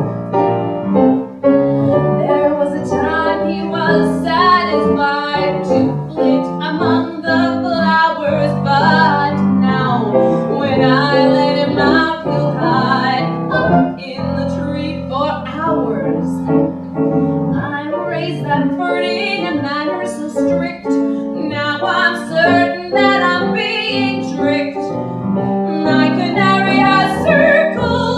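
Cabaret song performed by a woman singing with piano accompaniment.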